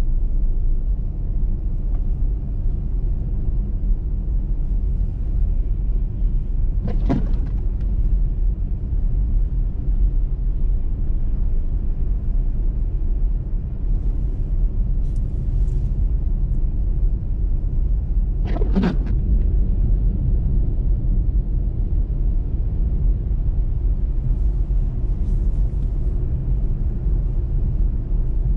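Steady low rumble of a car driving at road speed, tyre and engine noise. Two short sharp clicks break through, about seven seconds in and again near nineteen seconds.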